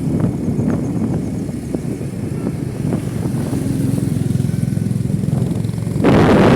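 Motorcycle engine running steadily, with a louder rush of noise starting about six seconds in.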